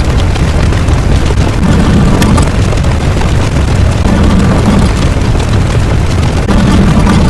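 A loud, steady low rumble without pauses, like a continuous explosion or eruption sound effect.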